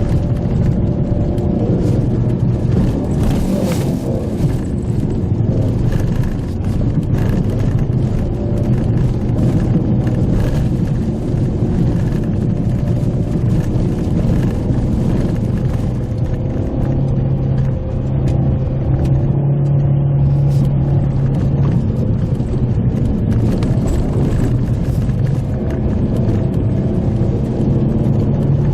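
Pajero Mini kei SUV driving on a rough forest road, heard from inside the cabin: a steady engine drone that rises in pitch a little past the middle and again near the end, with scattered knocks and rattles from the road surface.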